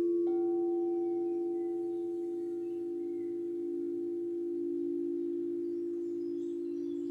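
Singing bowls ringing with a long, sustained low hum, a higher tone joining just after the start; the ringing wavers slowly as it fades.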